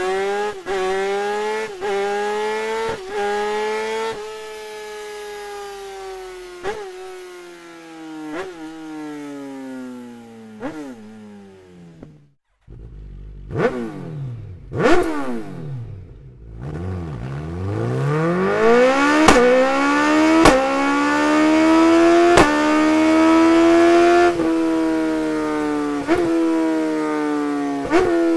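Superbike engines running through Akrapovič aftermarket exhausts, their pitch climbing and falling in long sweeps at high revs, with short sharp cracks here and there. The sound breaks off briefly about twelve seconds in, then another bike's engine takes over and rises again.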